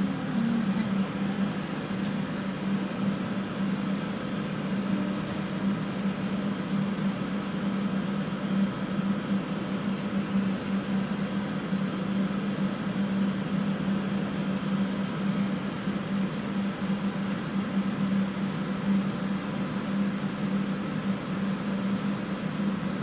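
Several electric fans running steadily to clear soldering fumes, a constant whooshing noise with a steady low hum.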